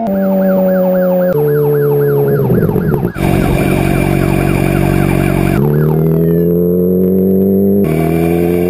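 Motorcycle engine running hard, its pitch rising and stepping up and down as it changes gear, with a police siren yelping rapidly over it for about the first three seconds.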